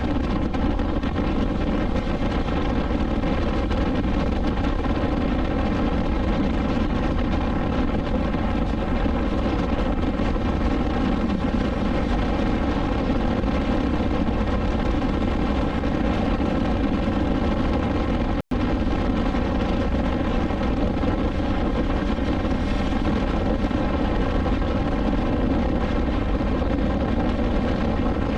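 BMW S1000XR inline-four engine running at a steady cruising speed, its pitch holding level throughout, over a low rush of wind and road noise. The sound cuts out for an instant about eighteen seconds in.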